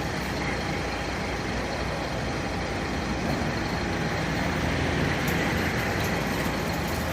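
A large vehicle's engine running steadily amid road traffic noise, getting a little louder about halfway through.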